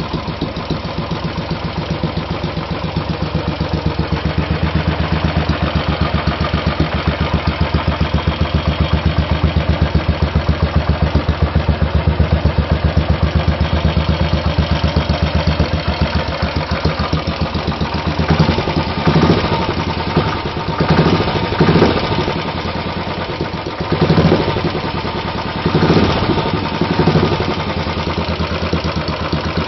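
Royal Enfield 500's single-cylinder four-stroke engine, breathing through an MG-Race aftermarket exhaust, idling with an even, steady thump. In the second half the throttle is blipped several times, each rev rising briefly and falling back to idle.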